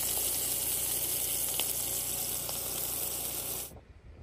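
Two ground-beef burger patties sizzling in a cast iron skillet: a steady, dense sizzle with small crackles, cutting off suddenly near the end.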